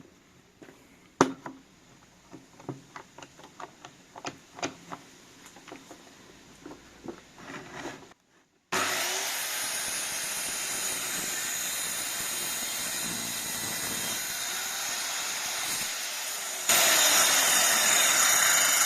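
Scattered light knocks and clicks of wooden slats being handled, then an electric saw runs steadily, cutting thin wooden slats, and gets louder near the end.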